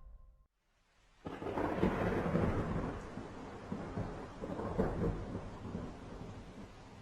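Thunder rumbling in a rainstorm, breaking in suddenly about a second in after a brief silence and slowly easing off.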